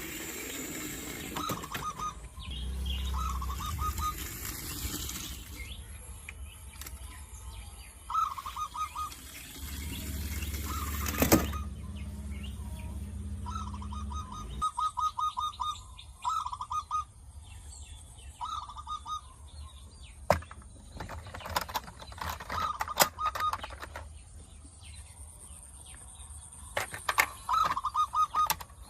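A bird chirping in short, rapid trills, repeated many times. There are sharp clicks and knocks throughout, and a low hum in two stretches during the first half.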